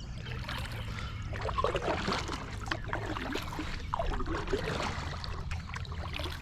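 Kayak paddling on a river: water splashing and trickling off the paddle blades in irregular strokes, over a steady low hum.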